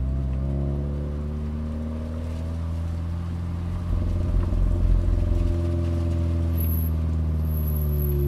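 Toyota 86's flat-four engine heard from inside the cabin: the revs fall, the note goes uneven during a gear change about four seconds in, then the engine pulls up through the revs and starts easing off again near the end.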